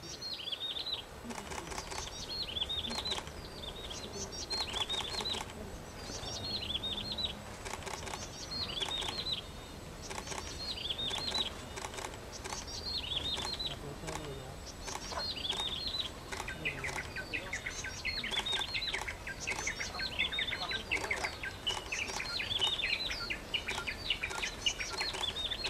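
A songbird repeating a short phrase of quick, high, downward-sweeping notes about every one and a half to two seconds, among scattered clicks. From about two-thirds of the way in, busier chattering calls from other birds join.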